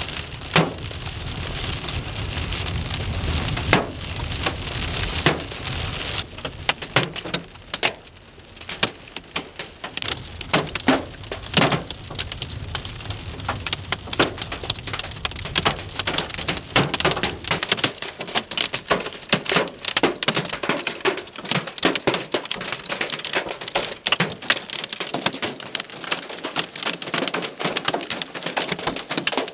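Hailstorm: a steady rush of rain with many sharp, separate cracks of hailstones striking hard surfaces. A low rumble under it drops away a little past halfway.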